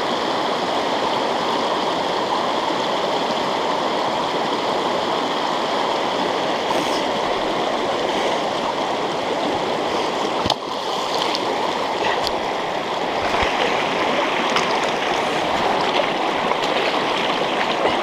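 River water running steadily, with one short knock about ten seconds in.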